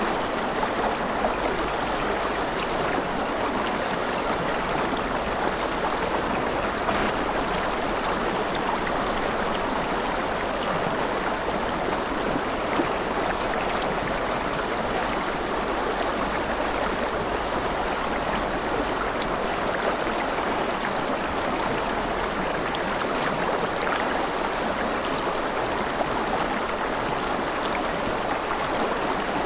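River water flowing and splashing, a steady rushing with small burbles and no let-up.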